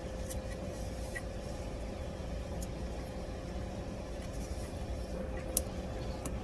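Steady low background rumble with a faint constant hum and a few soft clicks, one sharper click about five and a half seconds in.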